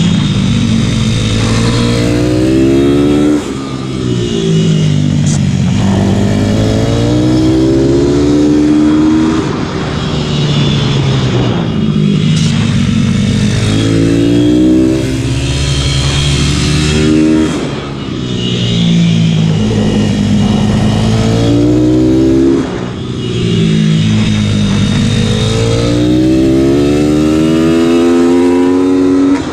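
YCF Factory SP2 150 pit bike's single-cylinder four-stroke engine ridden hard: it revs up over and over, dropping back briefly at each gear change. The throttle is shut off for a moment three times, at about 3 s, 18 s and 23 s.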